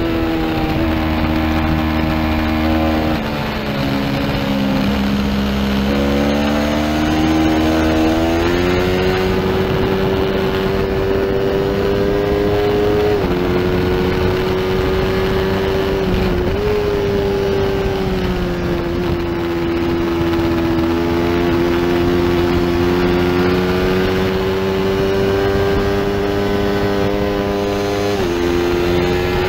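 Small-displacement race motorcycle engine at high revs, heard from the onboard camera with wind rush over the fairing. Its pitch sinks and holds low a few seconds in, then climbs back as the bike accelerates, with sharp short drops at upshifts near the middle and near the end.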